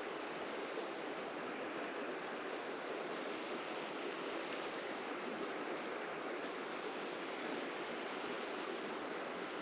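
River water rushing steadily past, a constant even hiss with no breaks.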